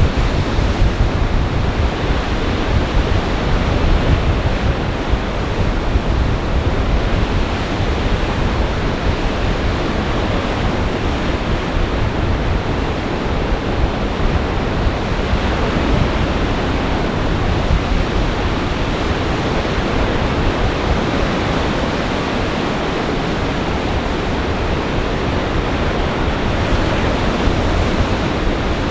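Lake Michigan storm surf breaking steadily under gale-force winds: a constant loud rush of waves and wind.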